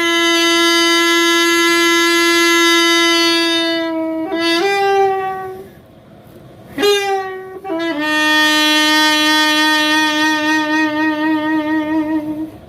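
Music: a solo wind instrument playing slow, long held notes. One steady note lasts about four seconds, then comes a short step up and a brief break, then another long, slightly lower note with a gentle vibrato.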